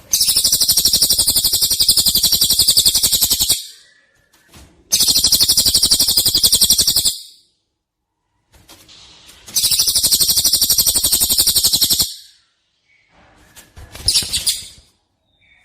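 Songbird 'tembakan' song: three long bursts of very fast, evenly repeated high notes, each lasting two to three and a half seconds with short gaps between, then a shorter burst near the end.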